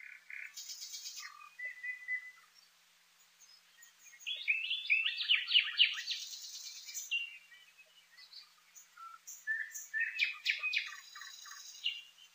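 Nightingale singing: varied phrases of quick repeated notes and trills, broken by short pauses. The loudest phrases come in the middle and near the end.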